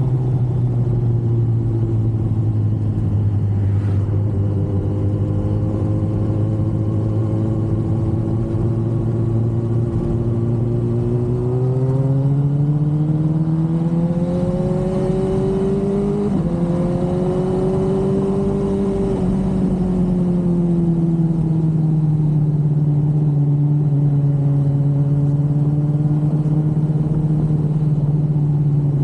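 Yamaha R1 inline-four motorcycle engine running steadily at cruise. Its pitch climbs under gradual acceleration about halfway through, breaks briefly at the top, then eases back down to a steady note.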